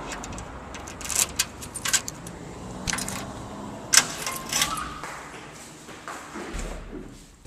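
A string of sharp clicks and knocks, uneven in timing, over a low background noise; the loudest comes about four seconds in.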